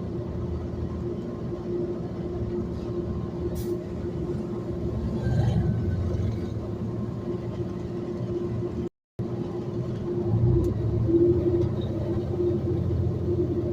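A city bus under way, heard from inside: a steady low engine-and-road rumble with a constant whine running through it. The sound cuts out for a moment about nine seconds in.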